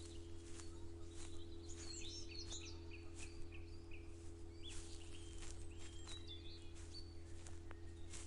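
Songbirds chirping and singing in quick, varied calls, with soft footsteps about every two-thirds of a second over a steady low hum.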